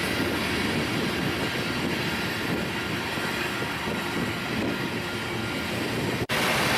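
Train rolling past, a steady rumble of wheels on rail, broken by a momentary dropout near the end.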